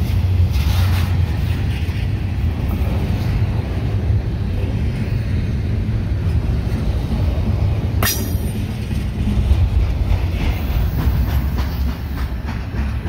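Double-stack intermodal container cars rolling past on the rails: a steady loud rumble of steel wheels on track with rhythmic clickety-clack, and one sharp crack about eight seconds in. The rumble eases slightly near the end as the last cars pull away.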